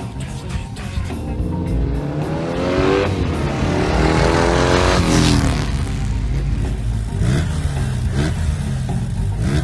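Motorcycle engine accelerating hard, its pitch climbing through the revs, peaking about halfway through and then falling away, followed by a few short blips of throttle near the end. Music plays underneath.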